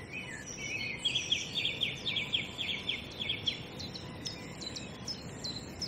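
Songbirds singing: one gives a run of about a dozen quick repeated high notes lasting a couple of seconds, then short sharp chirps follow near the end, over faint outdoor background noise.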